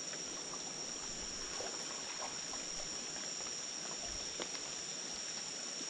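Steady high-pitched chorus of rainforest insects, with a soft watery hiss beneath it and a few faint scattered chirps and clicks.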